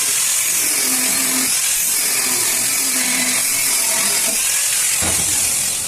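A workshop power tool running steadily at full speed for about five and a half seconds. It makes a loud, high-pitched whir that starts suddenly and dies away near the end.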